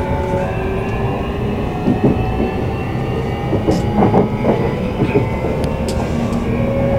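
E235 series electric train running, heard from inside the carriage: a steady wheel-and-track rumble with motor whine tones that drift slowly in pitch. In the middle a run of short clicks comes from the wheels passing over rail joints.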